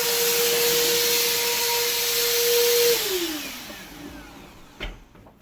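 Bissell Helix upright vacuum cleaner running with a steady whine over a rushing hiss. About three seconds in it is switched off, and the motor winds down with a falling pitch. A short knock comes near the end.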